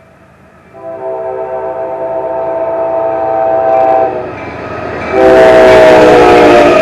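Locomotive multi-chime air horn on an approaching CSX freight train: one long blast of about three seconds, then after a second's pause a second, louder blast, with the locomotive's engine and wheel noise rising sharply as it draws close.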